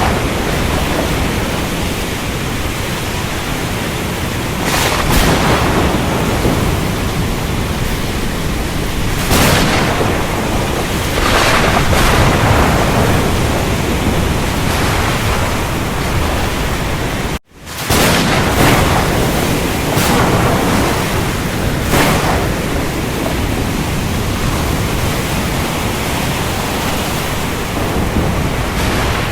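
Steady heavy rain with thunder, the downpour swelling in several brief surges of rumble and crack. The sound drops out for a split second a little past halfway, then resumes.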